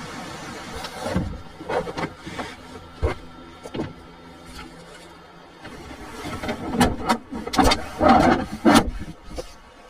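A series of knocks, clatters and rustles of things being handled, over a low steady hum that stops about five and a half seconds in; the handling noise is busiest near the end.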